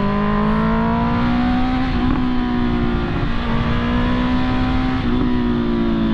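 Honda CB650R's inline-four engine pulling through a bend, its pitch rising under throttle and dipping briefly a few times, about two, three and five seconds in, over a steady rush of noise.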